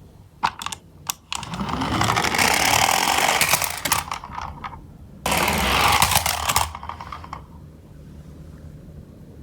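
Toy die-cast garbage truck minicar rolling down a slope track. A few light clicks as it is set down are followed by a rolling rattle of its wheels that lasts about three seconds and rises in pitch as it picks up speed. A second sudden stretch of rattling comes about five seconds in and dies away.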